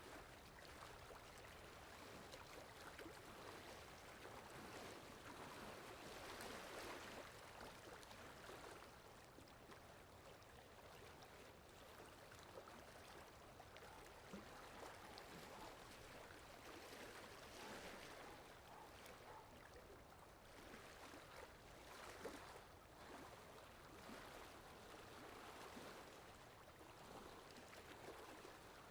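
Faint water ambience sound effect: a steady rush of flowing water that swells and eases every few seconds.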